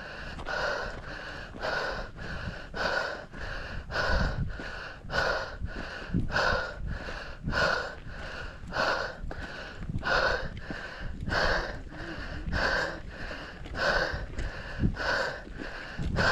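A runner breathing hard and rhythmically through the mouth on a steep uphill climb: quick, even breaths in and out, a little under two a second, with a low rumbling underneath.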